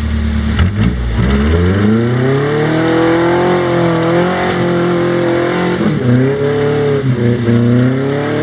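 Rock crawler's engine rising from a low idle to high revs about a second in, then held high with the revs wavering as it works up a rock obstacle. The revs dip briefly and pick up again twice near the end.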